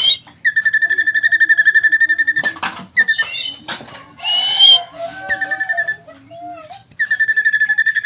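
Common iora singing: two long, fast-pulsing whistled trills held on one steady pitch, one about half a second in and one near the end. Between them come shorter whistled notes and a rising whistle.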